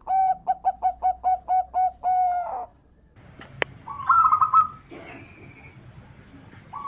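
Zebra dove (perkutut) cooing: a quick string of about nine short cooing notes ending in a longer held note. About four seconds in comes a sharp click and then a shorter, higher warbling call.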